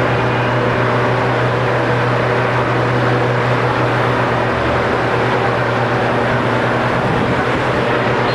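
Steady, loud noise of congested road traffic: many vehicle engines running together with a constant low hum.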